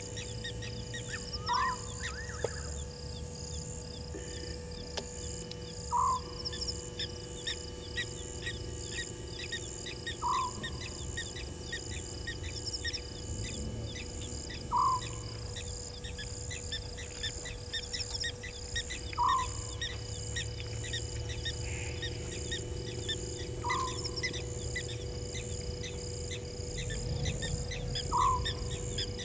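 A night bird's short single call, repeated seven times about every four and a half seconds, over a steady chorus of crickets and other insects.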